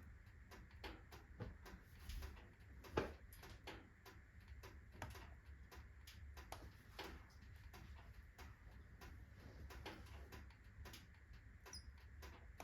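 Wood fire of alder, birch and oak logs crackling quietly in a stove, with irregular small pops and one louder pop about three seconds in.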